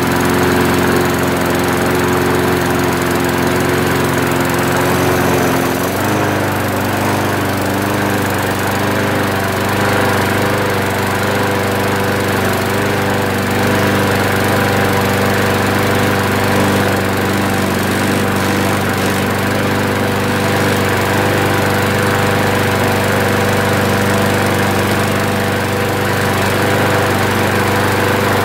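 Sanli petrol lawnmower engine running steadily after its sheared flywheel key was replaced. About six seconds in its speed changes abruptly, then it holds a new steady pitch.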